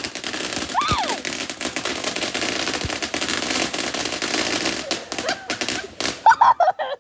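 Consumer fireworks going off in a dense run of rapid crackling pops, with a short rising and falling tone about a second in. Louder bangs come near the end, then the sound cuts off suddenly.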